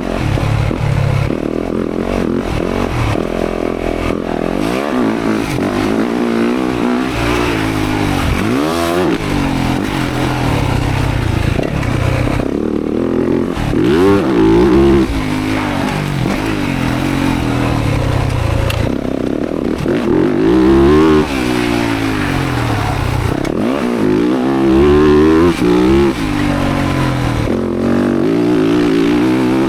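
Motocross dirt bike engine ridden hard, the throttle opening and closing so the pitch climbs and drops again and again, with several louder full-throttle pulls.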